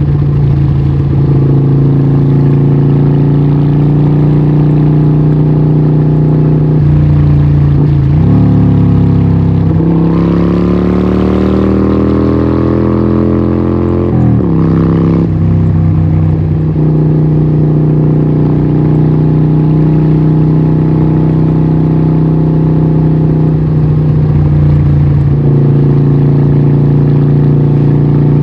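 Harley-Davidson 1200 Nightster's Evolution V-twin running through a Vance & Hines exhaust at a steady pace. About ten seconds in the revs climb for a few seconds, then drop sharply before settling back to a steady beat.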